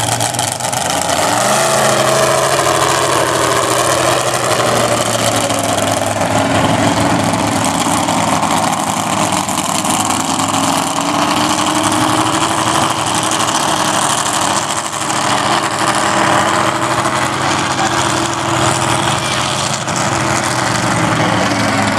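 Mud-bog truck engine running hard. Its pitch dips about two seconds in and then holds fairly steady.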